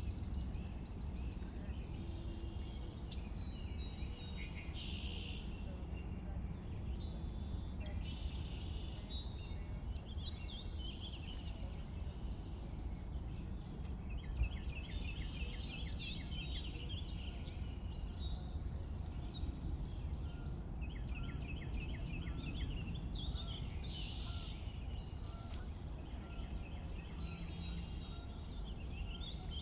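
Several songbirds singing and chirping, with short high phrases and rapid trills repeated throughout, over a steady low background rumble. A single sharp click comes about halfway through.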